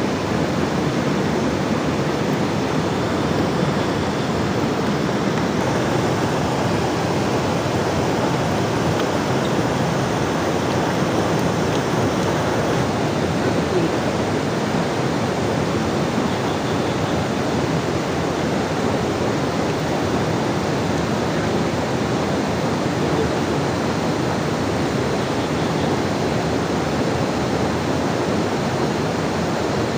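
A steady, even rush of water with no breaks or changes.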